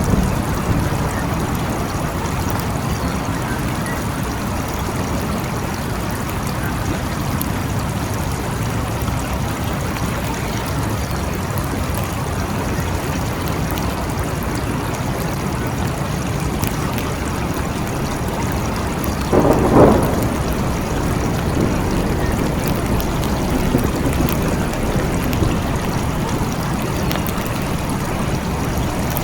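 Steady rain falling, with a low rumble underneath. About two-thirds of the way through comes a short, louder burst.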